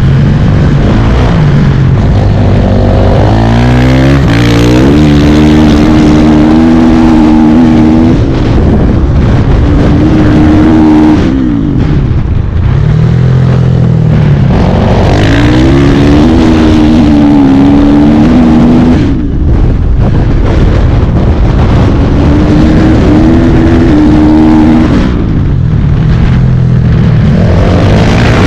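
Dirt bike engine revving hard, its pitch climbing through the revs and dropping again several times as the rider accelerates, shifts and rolls off. A dense rushing noise sits under the engine throughout.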